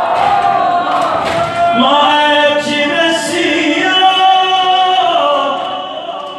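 A man's voice chanting an Arabic Shia mourning poem (latmiyya), unaccompanied, drawing out long held notes that bend slowly in pitch.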